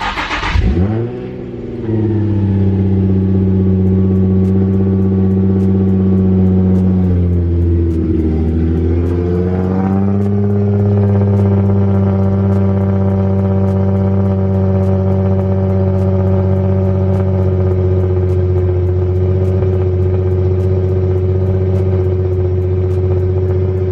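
Nissan 350Z's 3.5-litre V6 cold-starting: a brief crank, then it fires and flares up before settling into a steady high idle. The idle sags briefly about seven seconds in and picks back up.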